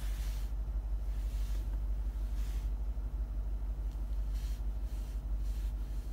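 Lexus IS F's 5.0-litre V8 idling steadily, a low rumble heard from inside the cabin.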